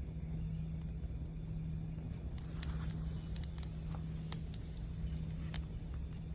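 Campfire crackling with scattered sharp pops over a low rumble, while a singing bowl's low tone rings on steadily underneath.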